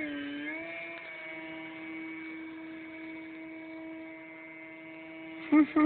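Motor and propeller of a large foam RC airplane in flight: a steady droning whine that dips slightly in pitch about half a second in, then holds level.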